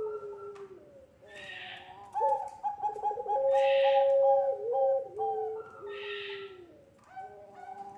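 Puter pelung doves, a long-voiced strain of Barbary dove, cooing, several birds at once: long held coos that overlap and step down in pitch, with a breathy rasp recurring about every two seconds.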